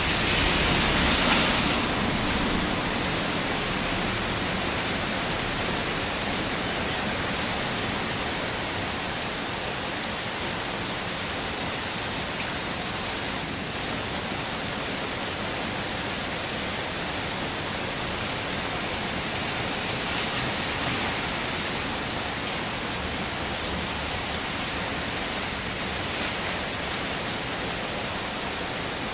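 Heavy rain falling steadily as an even hiss, swelling slightly about a second in, with two very brief dips in the hiss.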